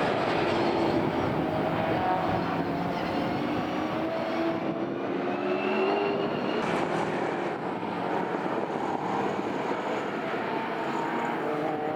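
Several classic racing cars running hard on track, their engine notes overlapping and rising slowly in pitch as they accelerate.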